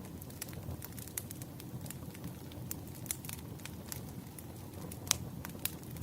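Burning firewood crackling: irregular sharp pops and snaps over a low, steady rumble of the flames, with one louder pop about five seconds in.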